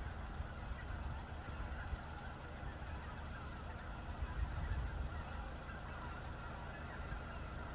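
A flock of wild birds calling in a continuous, dense chorus over a steady low rumble.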